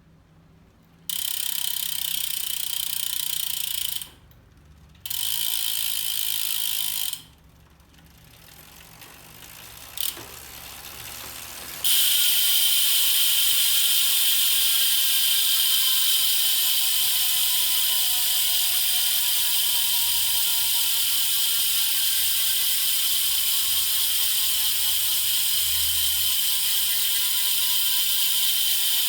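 Hubsmith freehub ratcheting as the wheel freewheels: a loud wasp-like buzz, with two short spells cut off by a pause. After a quieter stretch with a click, the buzz comes back loud and steady and slowly drops in pitch as the wheel slows.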